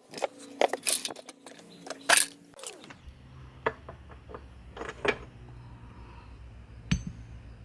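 Metal engine parts clinking and knocking together as they are handled, sharp irregular clanks over a steady tone. About three seconds in a low steady hum takes over, with a few more knocks over it.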